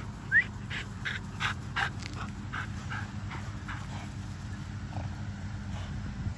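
American Bully puppy panting in quick, even breaths, about three a second, after running, with a short high squeak about half a second in, over a steady low hum.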